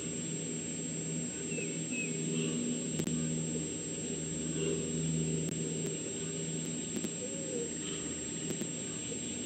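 A steady low engine-like drone, with a few faint high bird chirps over it.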